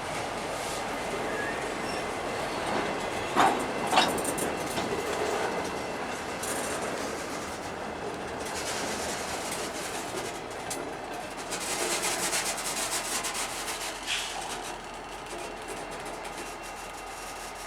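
Mostly empty freight cars rolling past on the rails, wheels clacking and rattling, with two sharp knocks about three and a half and four seconds in and another near fourteen seconds. The sound grows fainter near the end.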